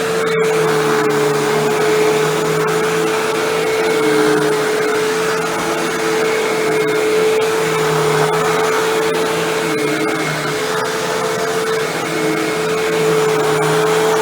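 Hoover Windtunnel Bagless twin-chamber upright vacuum cleaner running steadily: a constant motor whine over rushing air, with a lower hum that comes and goes.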